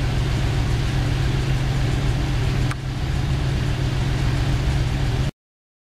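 A Ferrari Dino 246 GT's V6 engine idling steadily, with a brief click and drop in level about halfway through. The sound cuts off abruptly near the end.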